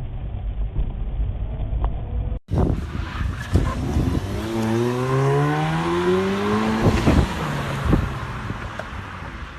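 Low road rumble that cuts off sharply, then a car engine accelerating, its pitch rising steadily for about two seconds over road and wind noise, with a few short knocks.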